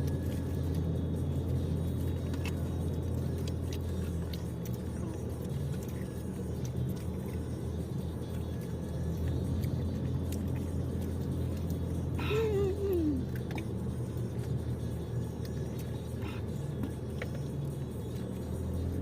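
Toyota Innova 2.8's four-cylinder turbodiesel idling, a steady low hum heard from inside the cabin. About twelve seconds in there is a short falling vocal sound.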